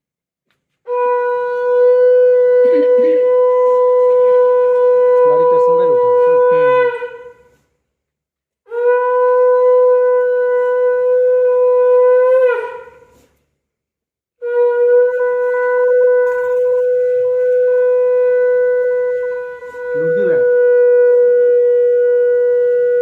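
A conch shell (shankh) blown in three long blasts, each held at one steady pitch and bending as the breath runs out. The first lasts about six seconds, the second about four, and the third about eight, with short breaths between them.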